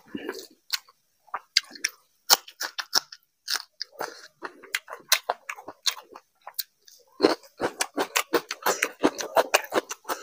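Close-miked, open-mouthed chewing of rice and fish curry: a stream of wet smacks and clicks, growing denser in the last few seconds.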